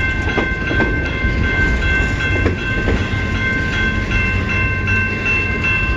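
CN freight train rolling past, a continuous low rumble of wheels on rail, with a repeated high ringing tone pulsing over it.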